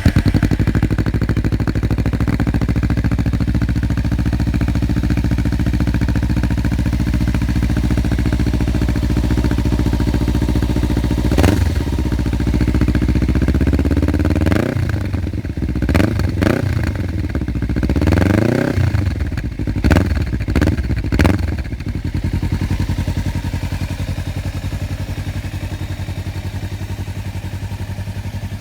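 Kawasaki Ninja 300's parallel-twin engine running through a Leo Vince GP Corsa slip-on muffler: steady idle, then one long rev that climbs and drops about halfway through, followed by a run of about five quick throttle blips before it settles back to a steady idle.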